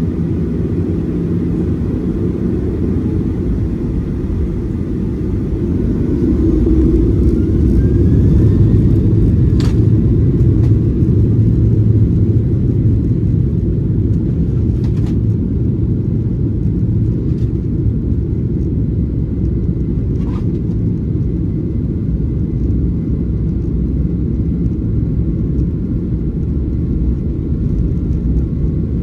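Boeing 737-800 engine and airframe noise heard inside the passenger cabin: a loud, steady low rumble that swells about six seconds in with a faint rising whine, then settles. A few sharp clicks sound over it.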